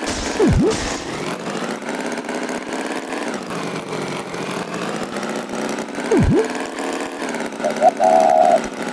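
Animated tractor's engine sound effect running steadily, with two quick swooping sound effects that drop low and come back up, one near the start and one about six seconds in, and a warbling beep near the end.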